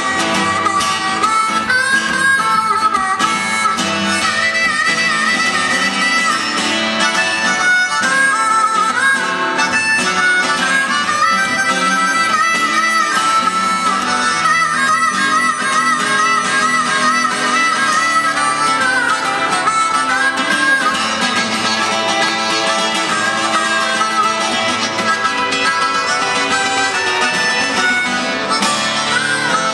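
Harmonica solo with wavering, bending notes over a strummed acoustic guitar, in an instrumental break of a blues-rock song.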